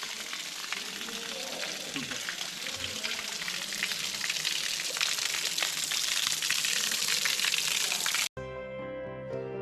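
Water from a natural spring splashing and pouring, a steady crackling hiss that grows a little louder midway. About eight seconds in it cuts off abruptly and acoustic guitar music begins.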